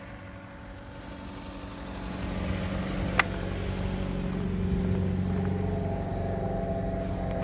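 2016 Dodge Dart idling, a steady engine and exhaust hum from its dual-pipe exhaust that grows louder over the first few seconds. A single sharp click about three seconds in.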